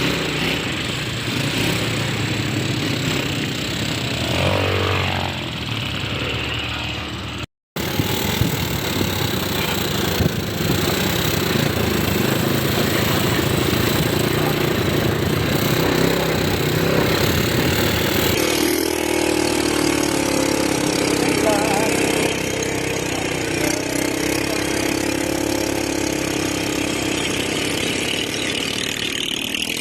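ATV engines running during a ride, steady and loud, with a short break about a quarter of the way in. After the midpoint the engine note settles into a steadier hum.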